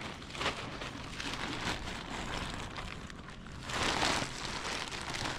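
Crackling rustle of a plastic fertilizer sack being handled as it is opened, with a louder rush of rustling about four seconds in.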